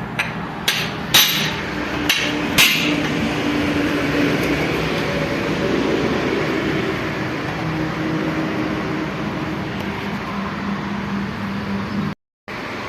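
Four sharp metal knocks in the first three seconds, a tool striking metal parts during tractor gearbox repair work, then a steady mechanical hum; the sound drops out for a moment near the end.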